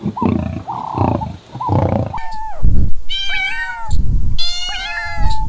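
Domestic cat meowing twice, each meow about a second long, starting a little before halfway through. Before that come a few short, repeated calls from another animal.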